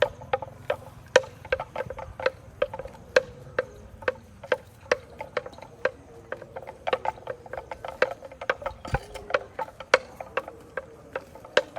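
Cow grazing, tearing and cropping grass with its mouth: a run of sharp, crisp snaps at an irregular pace of about two to four a second.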